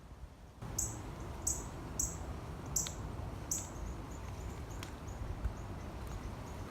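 A small bird chirping repeatedly: short, sharp, high chirps about once every second or less, loudest in the first few seconds and then fainter, over a low steady rumble.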